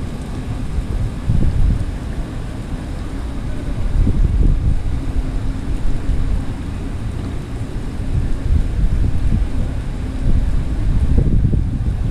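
Heavy rain pouring onto paving, with gusts of wind buffeting the microphone in uneven low rumbles.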